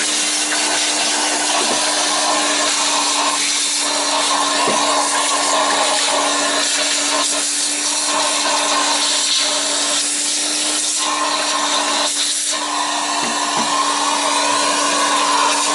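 Vacuum cleaner running steadily, sucking up dust, with a constant whine and a rushing airflow that dips briefly a few times as the nozzle moves.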